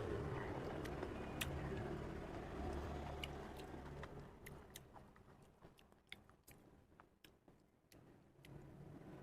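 Close-up chewing and biting sounds of a person eating, with scattered sharp mouth clicks; it grows quieter about halfway through, leaving only occasional clicks.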